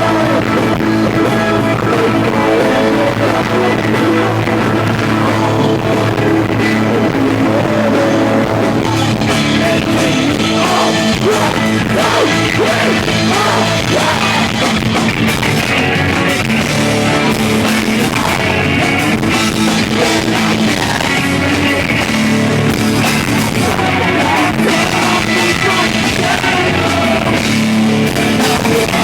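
Live rock band playing loud and steady, with electric guitar and sung vocals, recorded on an iPod in the crowd.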